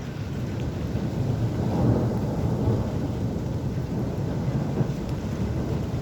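Rolling thunder rumbling, swelling about a second in and loudest around two seconds, over a steady hiss of rain.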